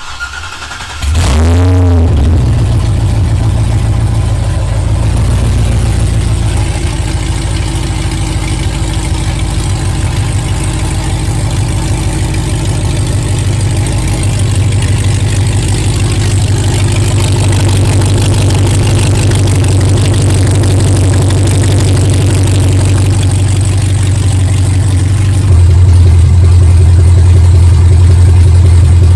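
C6 Corvette small-block V8 cranked by its starter, catching about a second in, then idling loud and steady through newly fitted aftermarket headers and X-pipe. The idle steps up louder a few seconds before the end.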